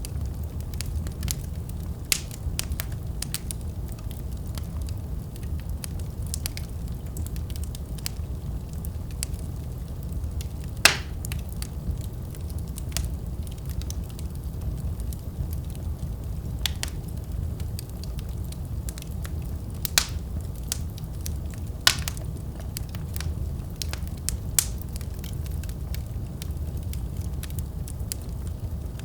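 Wood fire crackling: a steady low noise of the flames, broken by scattered sharp pops and snaps, the loudest about eleven seconds in.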